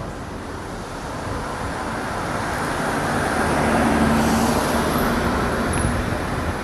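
Street traffic: a motor vehicle passes, its engine and tyre noise swelling to a peak about four seconds in and then easing off.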